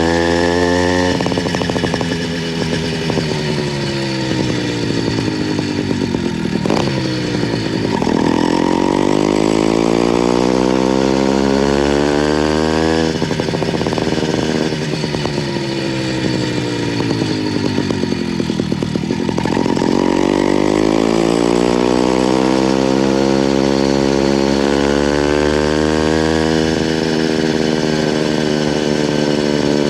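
Motorized bicycle's small two-stroke engine running under way with a high, buzzy note. Its pitch sinks as it slows for the first several seconds, climbs as it speeds up, drops back off about 13 seconds in, and climbs again from about 20 seconds in.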